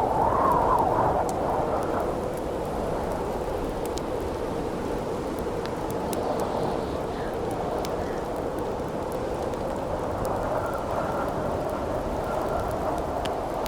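Wind howling steadily through a forest, swelling in a gust about a second in, with scattered sharp crackles and pops of a wood campfire throughout.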